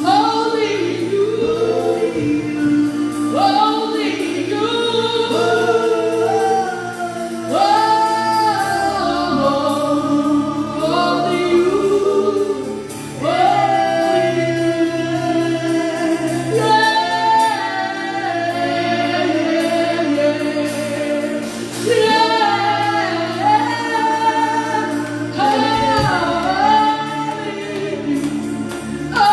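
Church worship team and choir singing a gospel worship song, voices over a steady held accompaniment.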